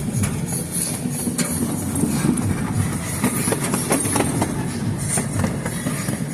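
Train running along the track, heard from aboard: a steady low rumble with irregular clacks and rattles from the wheels and car.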